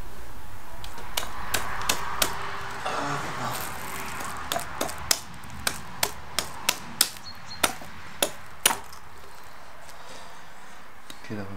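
Kitchen knife cutting a large fish on a wooden cutting board, the blade knocking against the board in a run of about fifteen sharp, irregularly spaced knocks that stop about nine seconds in.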